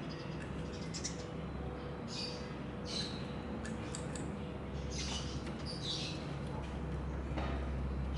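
Birds chirping: about six short, high chirps scattered through, over a steady low hum.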